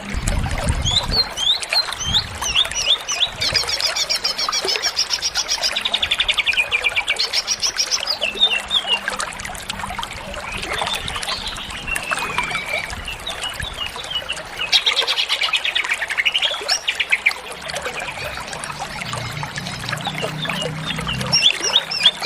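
Green leafbird (cucak ijo) singing continuously, a varied run of quick chirps, rapid trills and gliding whistles.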